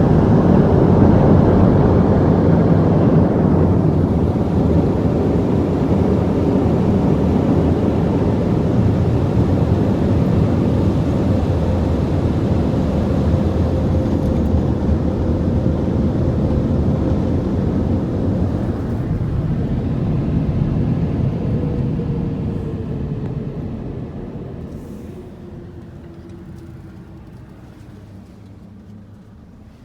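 Car wash air dryers (Belanger AirCannons) blowing with a loud steady rush, then winding down about three-quarters of the way through, their pitch falling as the noise fades.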